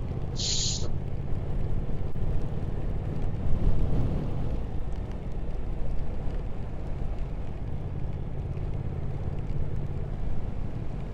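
Triumph Speed Twin 1200's parallel-twin engine running at a steady cruise, with wind and road noise on the rider's microphone. A brief high hiss comes about half a second in.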